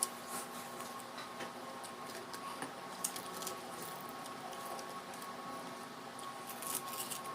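Soft, scattered clicks and smacks of eating, over a steady electrical hum.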